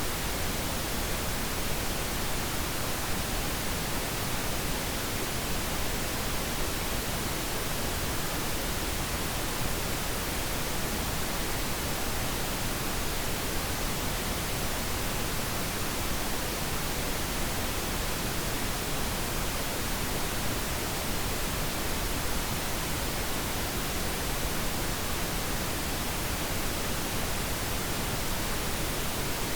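Continuous pink noise: a steady, even hiss with no changes, for lulling a baby to sleep.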